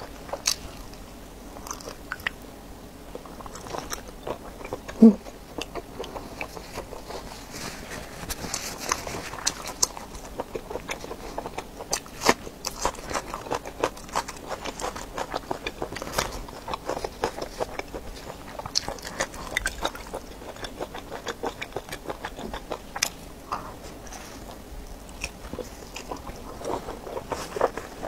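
Close-up eating sounds: biting into and chewing a coiled sausage and crunching raw red onion, with wet, crackly chews throughout. One louder thump about five seconds in.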